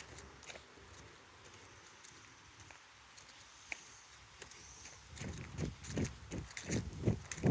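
Footsteps of a person on a trail: only a few soft steps at first, then running footfalls about three a second from about five seconds in.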